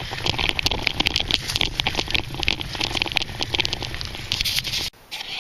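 Bicycle rolling fast over a rough dirt trail, heard from a handlebar-mounted camera: a dense, irregular rattling and clatter over a steady low rumble. It cuts off suddenly about five seconds in.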